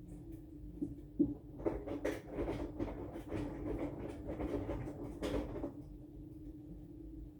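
Aqua AQW-DX12M front-loading drum washing machine running, heard through its own casing: a steady hum, with about four seconds of laundry and water tumbling in the turning drum in the middle, loudest near the end of that stretch.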